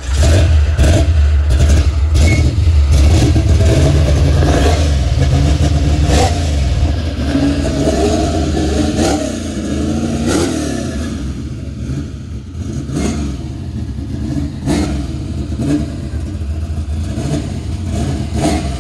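Box-body Chevrolet's engine being revved again and again, each rev rising and falling in pitch over a loud low exhaust note. It is loudest in the first several seconds, and the revs are a little softer after that.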